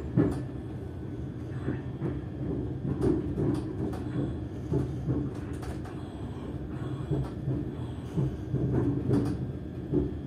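Class 385 electric multiple unit heard from inside by the doors while running, with a steady low rumble and motor hum and irregular clicks and knocks from the running gear and car body.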